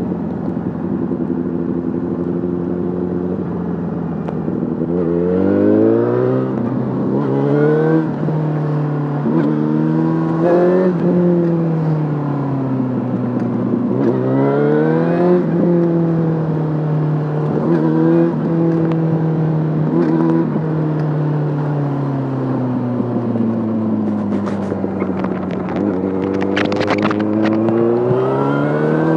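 Yamaha Fazer 600 inline-four motorcycle engine through a handmade exhaust. It runs steadily at first, then accelerates through several quick upshifts, the revs rising and dropping back at each shift. It slows with the engine note falling, then revs up again near the end, with a few sharp clicks shortly before.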